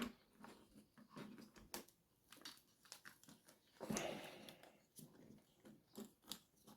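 Faint scattered clicks and light knocks of an RC truck being handled and turned over on a work surface, with a knock at the start and a brief rustle about four seconds in.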